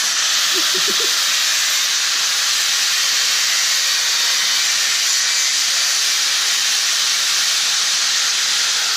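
Handheld spinning power tool cutting into a plastic pit-bike fender, a steady harsh hiss that holds without a break.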